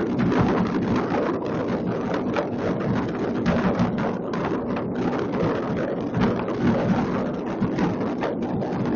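A continuous din of many fireworks going off at once across a city, a dense crackle of overlapping pops and bangs with deeper booms underneath and no pause.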